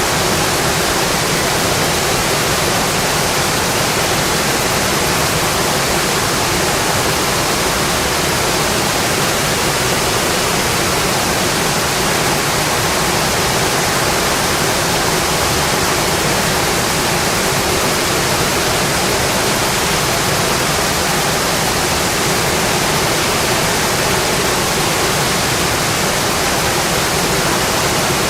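Steady heavy rain, an even unbroken hiss with no separate drops or crackles standing out.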